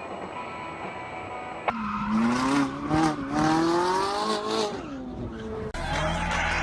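A car engine accelerating: its pitch climbs steadily for about three seconds, then drops away. Before it, a steady in-car hum cuts off suddenly.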